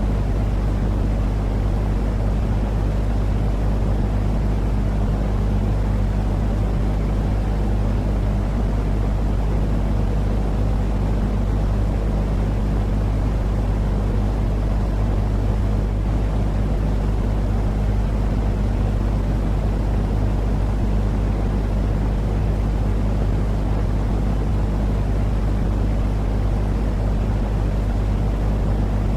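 Steady, unchanging low rumbling noise with a constant low hum under it: a looping white-noise track for lulling a baby to sleep.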